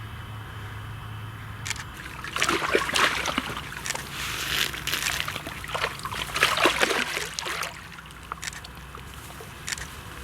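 Water splashing and sloshing in irregular bursts, busiest from about two seconds in until about eight seconds in, over a steady low hum.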